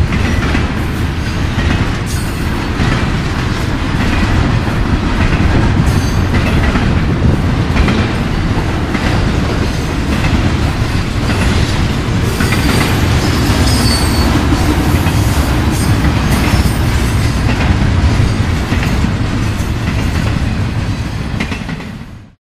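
Loaded intermodal freight cars rolling past close by: a steady, heavy rumble of steel wheels on rail, with clicking over the rail joints. Brief high wheel squeals come about halfway through, and the sound fades out sharply near the end.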